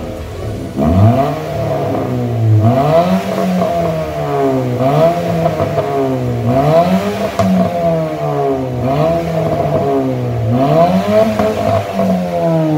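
Engine with an aftermarket racing exhaust being revved again and again, about once every two seconds, the pitch climbing and dropping back each time.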